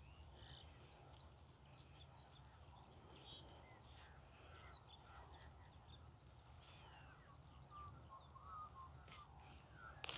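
Near silence, with faint, scattered bird chirps and a low steady rumble.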